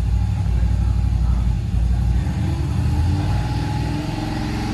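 A motor vehicle engine running steadily, a low drone that shifts slightly in pitch about two seconds in.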